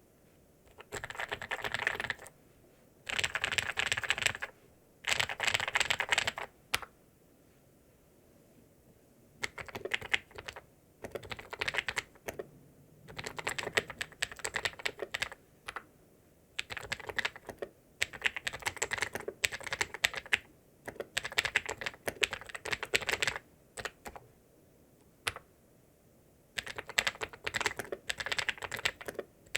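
ZIYOULANG K68 68-key mechanical keyboard with ABS keycaps being typed on in quick bursts of keystrokes, each lasting a second or two, broken by short pauses.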